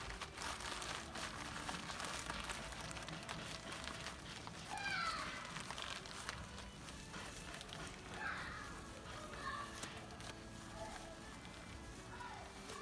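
Faint rustling and crackling of newspaper being crumpled into a tinder ball for a campfire, with a few short high calls in the background.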